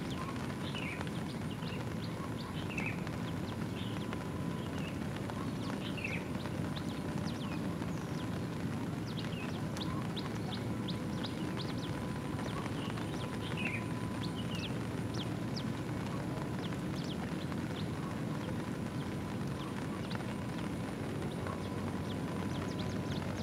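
Steady rain patter, with small birds giving short, falling chirps throughout.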